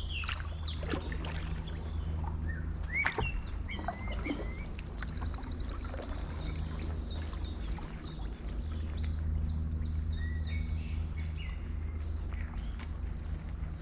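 Several songbirds singing, with quick series of short high chirps and trills repeating throughout, over a steady low rumble.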